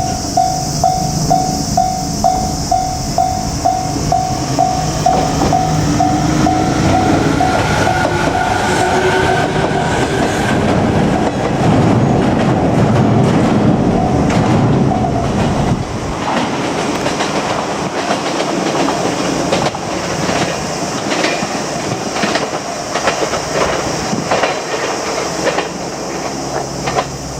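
A Japanese level-crossing warning bell rings about twice a second while JR Kyushu 817 series electric trains go by. The trains' motor whine rises in pitch, then comes a loud rush of wheel and rail noise, then a run of sharp wheel clicks over the rail joints as the cars pass.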